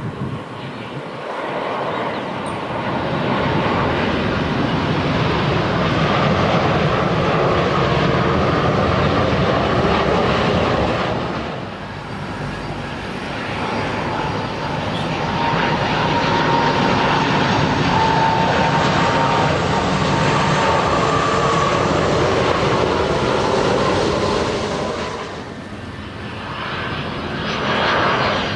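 Boeing 787-10 Dreamliner's jet engines on landing approach, running loud and steady as the airliner passes, with a whine that falls slightly in pitch. The sound dips briefly twice.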